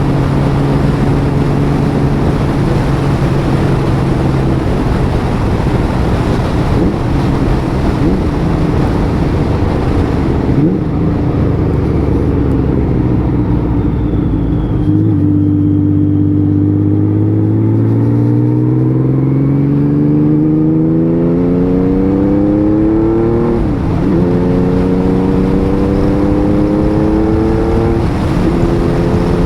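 Honda Valkyrie 1500's flat-six engine, freshly rebuilt, heard while riding. It holds a steady note under a rush of wind at first. From about halfway it pulls hard, its note rising, drops briefly at a gear change about three-quarters through, then rises again.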